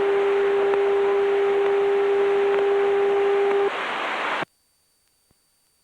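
Aircraft radio hiss in the headset with a steady whistling tone over it. The whistle stops a little over halfway through, the hiss carries on briefly, then cuts off abruptly to silence as the radio's squelch closes.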